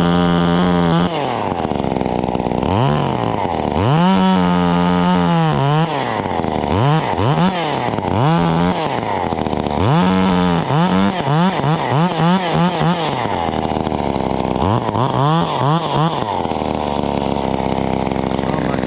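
Two-stroke Stihl MS 194 T top-handle chainsaw revved in bursts. It holds full throttle for a second or two at a time, then gives quick throttle blips several times a second, dropping back to idle between.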